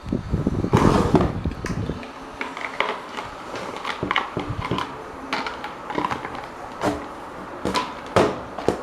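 A series of light knocks and clicks of parts and tools being handled on a work surface, heavier and with a low rumble for about the first two seconds, then sparser.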